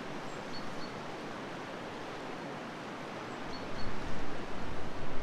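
Steady outdoor rushing noise, joined about three and a half seconds in by gusts of wind buffeting the microphone.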